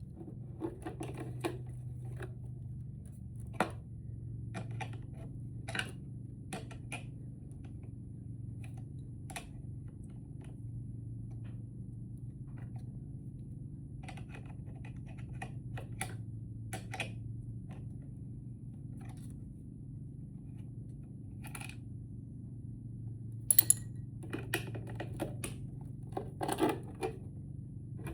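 Scattered clicks, taps and knocks of hand tools and parts being handled, over a steady low hum. A quick cluster of sharp clicks near the end is the loudest.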